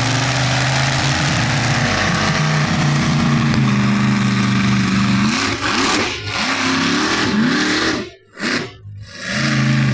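Monster truck engine running hard at steady revs, then revving up and down in several quick throttle blips about five seconds in. The sound drops away sharply twice near the end before the engine comes back at steady revs.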